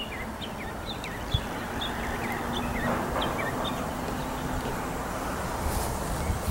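Small songbirds chirping, short high calls repeated several times a second and thinning out after the first few seconds, over a steady outdoor background with a faint low hum that fades out about five seconds in.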